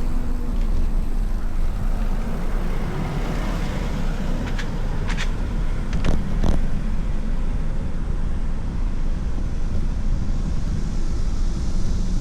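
Steady wind rumble on the microphone while riding, with a few short clicks in the middle.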